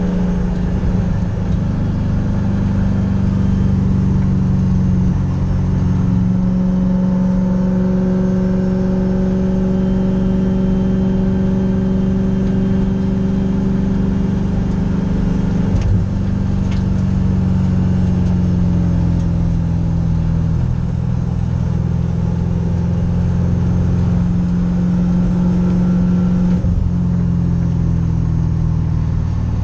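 Race car engine heard from inside the stripped cabin, running hard, its note holding steady and then stepping and sliding up and down several times with throttle changes.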